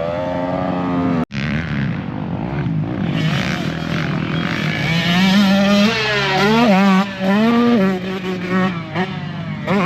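Motocross dirt bike engines revving on the track, their pitch rising and falling as the bikes accelerate and back off, with more than one engine heard at once in the second half. The sound drops out abruptly for an instant a little over a second in.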